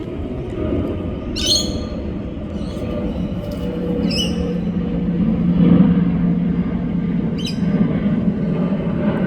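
Wild birds giving three short, high calls, each a quick falling chirp, about a second and a half, four and seven and a half seconds in, over a steady low mechanical hum that swells slightly past the middle.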